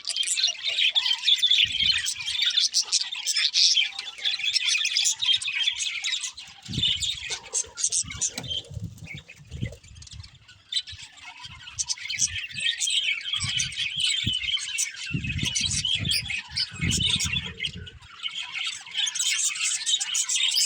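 Budgerigars chirping and chattering, a dense run of high twittering that thins out briefly about halfway through. Several low thuds come and go underneath.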